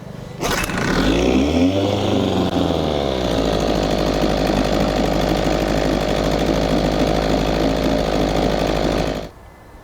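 1968 Evinrude 6 hp two-stroke twin outboard revved up sharply about half a second in, its pitch rising and falling, then held at a steady fast run before dropping back just after nine seconds, while its cooling system is flushed of sand or scale.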